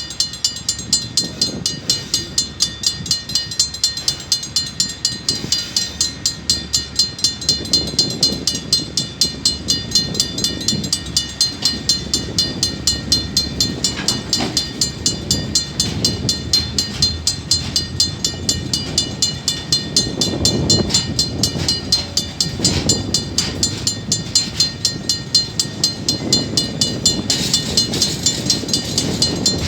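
A level-crossing warning bell rings steadily at about two to three strokes a second while a KiwiRail DSG diesel locomotive and its train rumble through the crossing.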